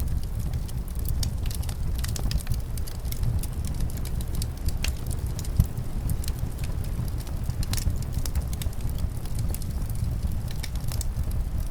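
Wood fire crackling in a fireplace, with frequent small sharp pops and one louder pop about halfway through, over a steady low rumble of winter wind.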